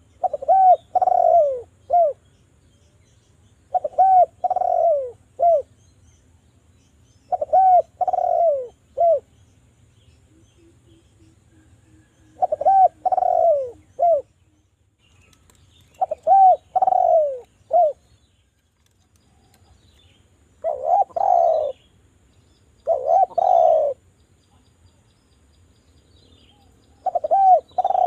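Javanese derkuku dove (Sunda collared dove) cooing: about eight loud phrases of a few falling coos, each ending in a short clipped note, repeated every three to four seconds.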